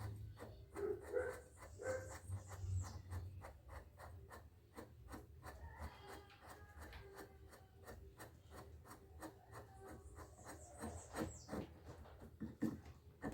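Hand wrench working a suspension bolt loose, with repeated short metallic clicks and scraping at an uneven pace.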